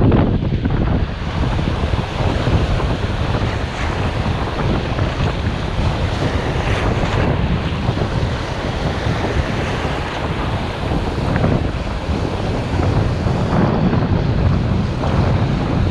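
Strong wind rumbling on the microphone, with sea surf washing on the shore underneath.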